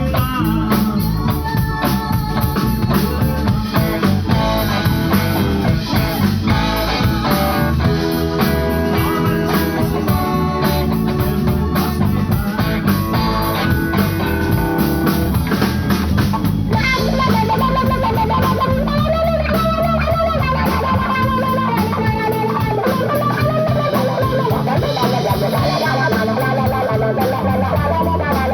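Live band playing bluesy rock: guitar, bass and drum kit. About two-thirds of the way through, a lead line with bending, sliding notes comes to the front.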